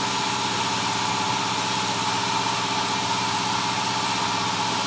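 An engine idling steadily, with a constant humming tone over it.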